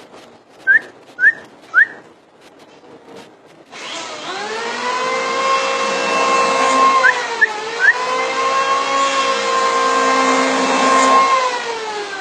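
Green leafbird (cucak ijo) giving short, rising whistled chirps: three in quick succession about a second in, a few more later. From about four seconds a loud, steady motor hum takes over, dips in pitch once midway and falls away near the end.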